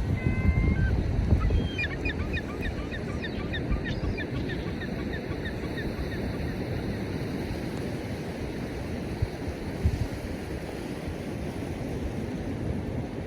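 A seagull calling: a short drawn-out note, then a long run of quick yelping notes that slows and fades over about five seconds. Beneath it is a steady wash of surf and wind, with heavier wind on the microphone in the first second or so.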